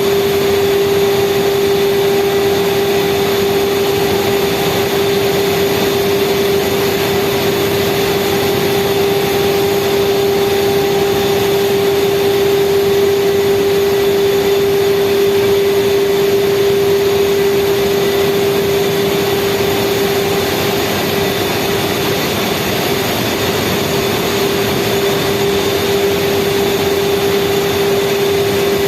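Speedboat engine running steadily at speed: an even drone with one strong held tone over a constant rushing noise.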